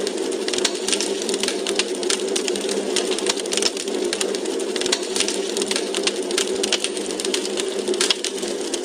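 Wood fire in a fireplace crackling: rapid, irregular crackles and pops over a steady hiss.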